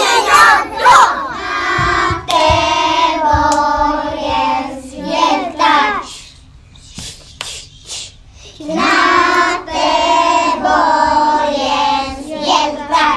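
A group of young children singing together in unison, with hand claps. The singing stops for a couple of seconds in the middle, leaving only the claps, then starts again.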